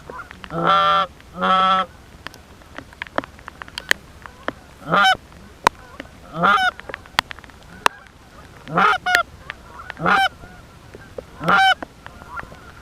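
Canada goose honks: two long calls close together near the start, then single short honks that break upward in pitch every second or two. Scattered sharp clicks between the calls.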